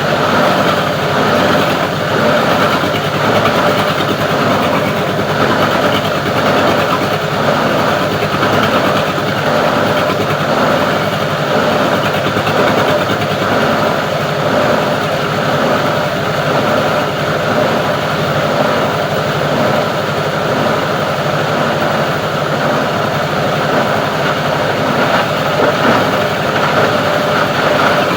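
Plastic-recycling grinding machine running steadily: a continuous mechanical drone with no pauses or changes in speed.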